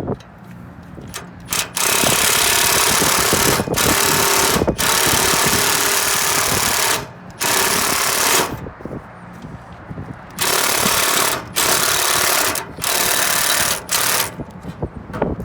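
Handheld power driver running in repeated bursts: one about five seconds long, then several shorter bursts of about a second each.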